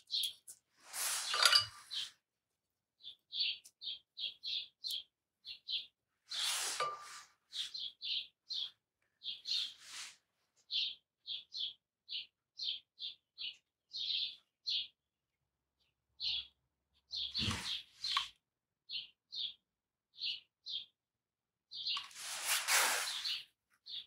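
A small bird chirping repeatedly, short high notes two or three a second in runs with short pauses between. A few brief soft swishes are heard between the chirps, about a second in, around seven seconds, around seventeen seconds and near the end.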